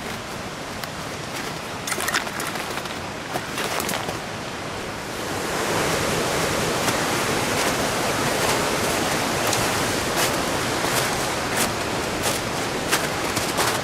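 Rushing water of a mountain stream, a steady hiss that swells louder about five seconds in, with short sharp clicks scattered over it.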